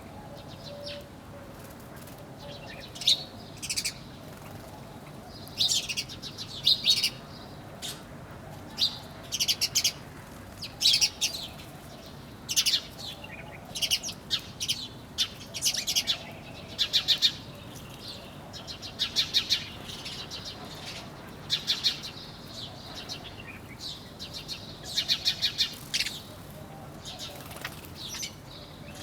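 Small birds chirping in short bursts of rapid, high notes, a burst every second or two, over a faint steady background hiss.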